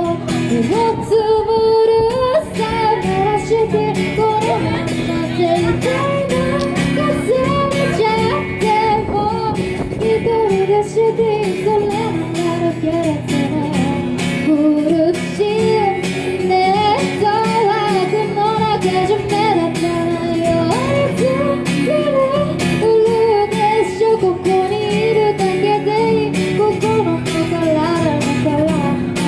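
A female singer singing a pop song with acoustic guitar accompaniment.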